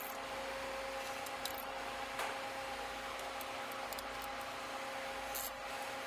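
Steady background hum, two even tones over a light hiss, with a faint click about two seconds in and a brief high hiss near the end.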